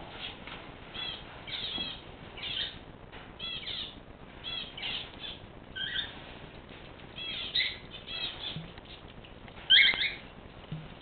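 Pet cage birds calling: a run of short, curving chirps, sometimes several a second, with the loudest calls near the end.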